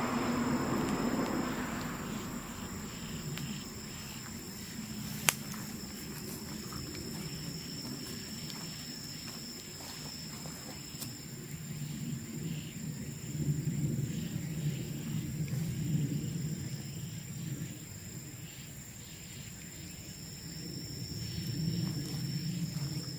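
Bamboo bonfire burning, with faint crackles and one sharp pop about five seconds in, over a low rumble that swells and fades. Insects trill on two steady high notes.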